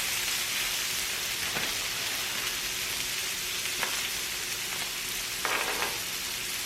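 Pork belly sizzling on a tabletop grill, a steady frying hiss with a few faint crackles, the meat giving off a lot of fat as it cooks.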